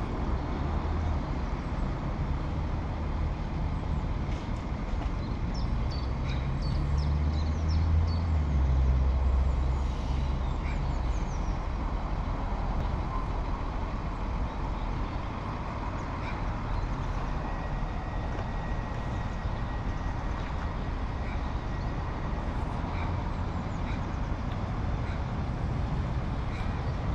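A train running by with a deep engine rumble that swells about seven to ten seconds in, with a scatter of brief high squeaks in the first ten seconds.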